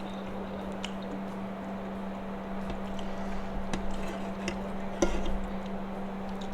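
Eating sounds: a spoon clicking against a bowl or plate a few times, with chewing, over a steady low hum. The loudest clink comes about five seconds in.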